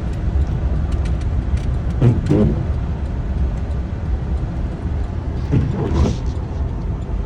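Steady road and engine rumble of a moving car heard from inside the cabin, with brief faint voices twice.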